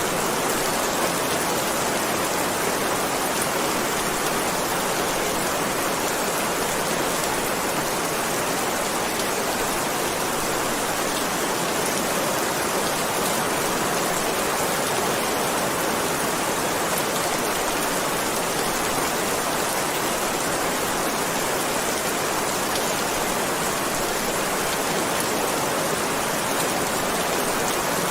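Heavy rain falling steadily, a dense even hiss with no thunder or pauses.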